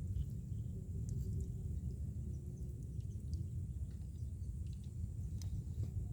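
Low, unsteady outdoor rumble with a few faint ticks scattered through it.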